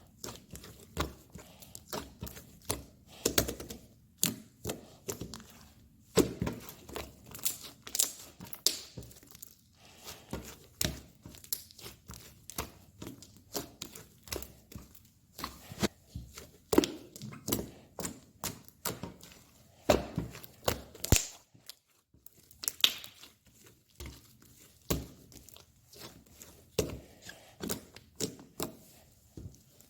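Slime being squeezed, poked and stretched by hand: a continuous run of irregular sticky pops and crackles, several a second.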